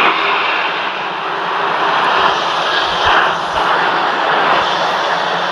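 Jet airliner's engines running, a loud, steady rushing noise that swells and eases slightly.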